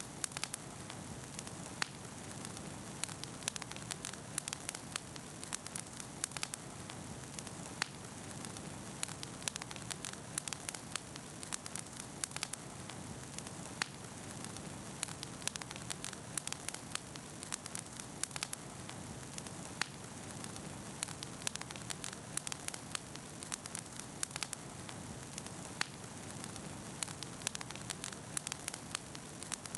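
Wood campfire crackling: frequent sharp, irregular pops and snaps over a steady low rushing of the flames.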